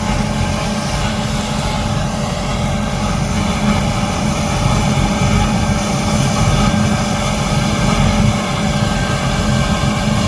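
Large diesel harvest machinery running steadily under working load: a constant engine drone with a steady whine and mechanical rush above it.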